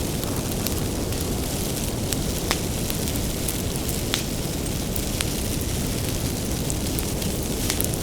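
Wood fire burning with a steady low rumble, and sharp crackles and pops from the firewood scattered through it, the strongest about two and a half and four seconds in.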